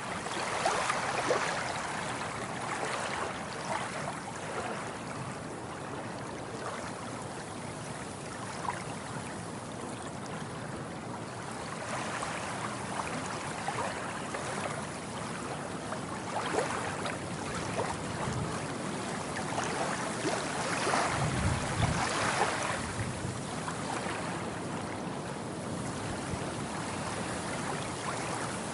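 Ocean waves washing in and breaking, a steady hiss of surf that swells into louder surges at the start, about halfway through and again about two-thirds of the way in.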